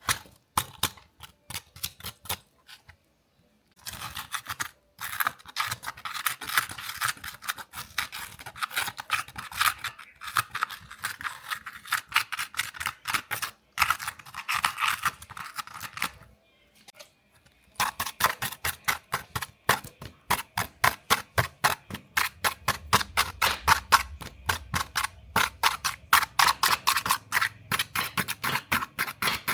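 A small brush scrubbing a dirty model car in rapid, repeated strokes, about three or four a second. The scrubbing pauses briefly twice.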